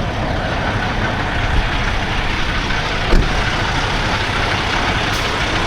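Steady road and engine rumble heard from inside a moving vehicle, with a single knock about three seconds in.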